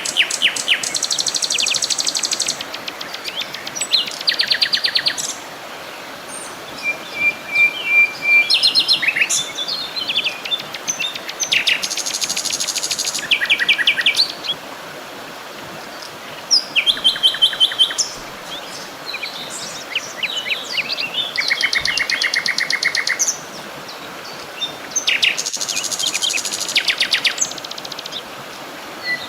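Several songbirds singing: rapid trills and chirping phrases a few seconds long, overlapping and coming one after another, over a steady background hiss.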